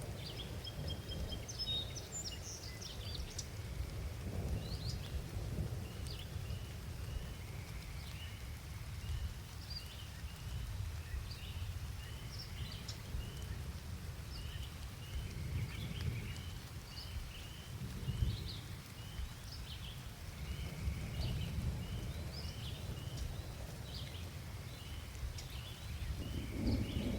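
Rainy outdoor ambience with a steady low rumble of distant thunder and rain. A bird sings a few warbled notes at the start, then gives short high chirps about twice a second for most of the stretch. The rumble swells near the end.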